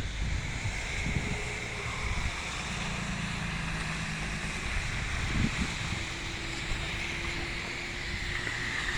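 Steady outdoor noise of wind buffeting the microphone over a low, continuous rumble.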